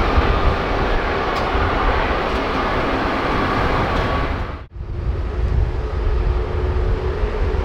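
Jet noise from a Boeing 787-9's Rolls-Royce Trent 1000 engines, steady with a faint whine, mixed with heavy wind rumble on the microphone. The sound drops out for an instant about two-thirds through and comes straight back.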